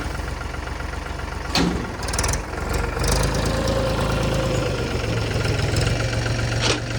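Mahindra tractor's diesel engine running steadily, getting louder and heavier about three seconds in. A sharp knock about a second and a half in and another near the end.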